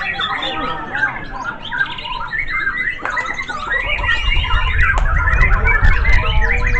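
Several white-rumped shamas (murai batu) singing at once, a dense tangle of loud overlapping whistles and warbling phrases. A low rumble joins in from about four seconds in.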